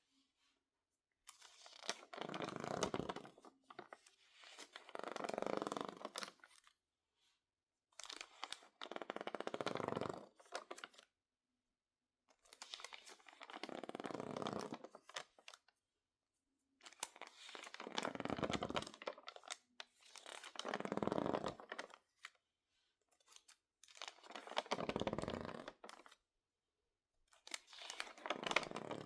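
Stiff, crinkled magazine pages, water-damaged and dried, crackling and crinkling as they are worked by hand. There are eight separate handlings of about two seconds each, with quiet gaps between them.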